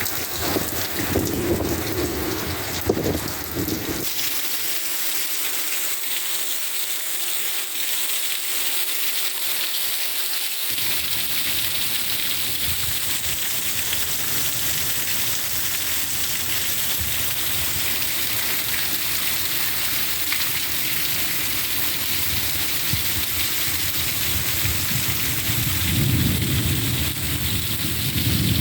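Heavy rain falling steadily in a severe thunderstorm, a dense even hiss, with low rumbling in the first few seconds and again near the end.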